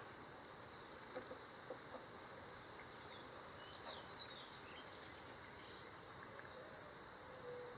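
Faint, steady high-pitched drone of insects, with a few faint clicks.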